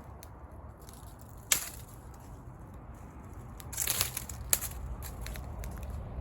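Wood fire crackling over a low steady rumble, with a sharp pop about a second and a half in, a burst of crackles around the middle, and another sharp pop soon after.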